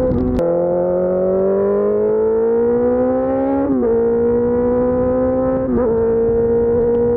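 Suzuki GSX-R600 K4 inline-four running through an SC-Project race exhaust under load. The revs climb steadily for about three seconds, drop a little at a gear change, then hold nearly steady, with another brief dip near the end.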